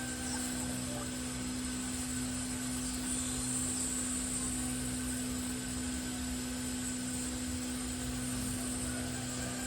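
A steady machine hum with one constant tone and a hiss above it.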